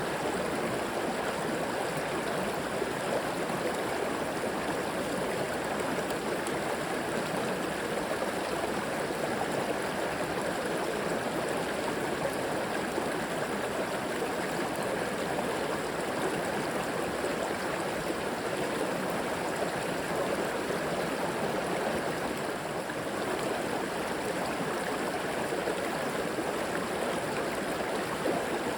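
River water flowing and gurgling over rocks in a steady, unbroken rush.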